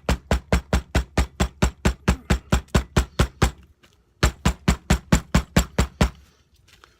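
A hammer pounding a leaf laid on paper on a tabletop, in rapid, even blows of about five a second, beating the leaf's pigment out onto the paper. The blows stop briefly about halfway through, then resume for about two more seconds.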